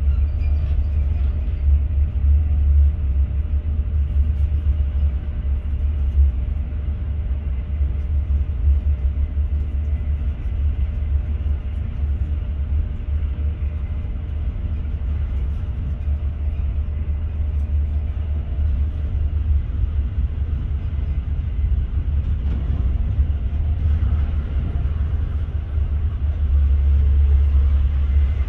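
Class 43 HST (InterCity 125) train running along the line: a steady, loud low rumble of the running gear with an even rushing noise over it and a faint hum that fades out about two-thirds of the way through.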